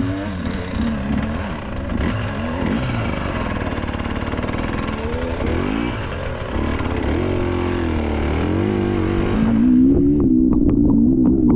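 Enduro dirt bike engine running, its pitch rising and falling with the throttle, under a steady hiss that stops near the end; then the engine carries on steadier, with a few sharp clicks.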